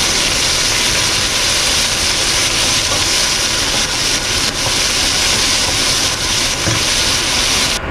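Prawn shells sizzling steadily in hot olive oil in a stainless steel pot as they are stirred and sautéed to golden brown for a shrimp stock. The sizzle cuts off suddenly near the end.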